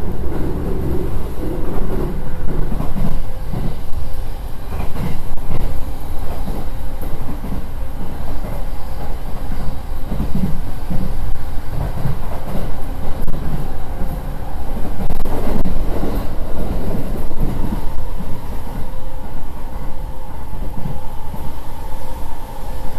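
JR East E231-800 series electric commuter train running at about 80–87 km/h, heard from inside the car: a continuous rumble of wheels on rail with irregular knocks. A faint steady whine runs underneath, and a higher tone grows stronger over the last few seconds.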